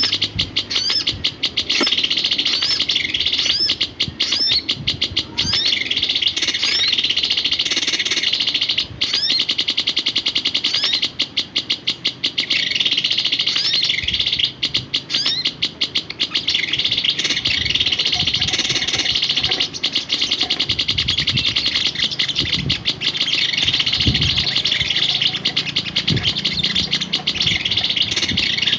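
A songbird chirping in a rapid, near-continuous chatter of high notes, broken by short pauses, with a few faint low thumps near the end.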